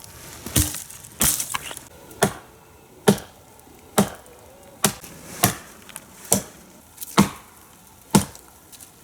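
Axe chopping wood: about ten sharp, separate blows at roughly one a second, evenly spaced. This is likely the new Fiskars X70 axe splitting logs.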